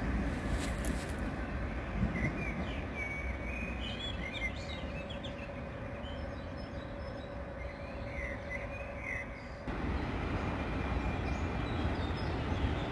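Passenger train running away down the track, a steady low rumble fading with distance, with birds chirping over it. About ten seconds in the sound changes abruptly to the fuller, louder rumble of a freight train further down the line.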